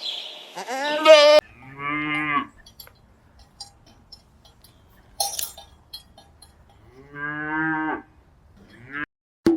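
Cow mooing: two long, low moos about 2 s and 7 s in, and a short call near the end. Near the start there is a rising animal call that cuts off abruptly about a second in.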